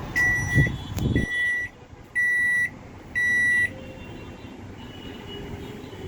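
Microwave oven beeper sounding four long, high beeps, evenly spaced about one a second. Under the first beeps a low hum runs on and stops just over a second in, with a sharp click just before it.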